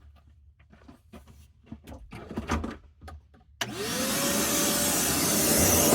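A few small clicks and knocks of handling, then about three and a half seconds in a vacuum cleaner switches on: its motor whine rises quickly to a steady pitch over a loud rush of air.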